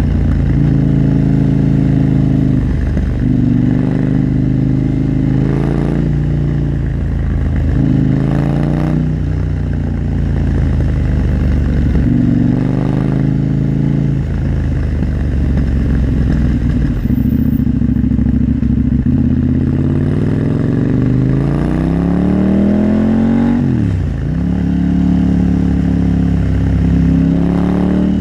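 KTM 890 Duke R's parallel-twin engine under way, revving up and dropping back several times as the gears are shifted. There is one long, steady climb in revs about three quarters of the way through, then a sharp drop.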